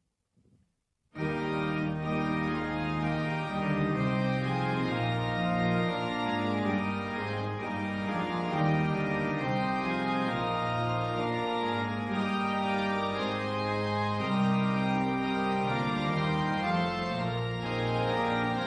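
Organ music playing slow, held chords that change every second or so, starting about a second in after a short silence.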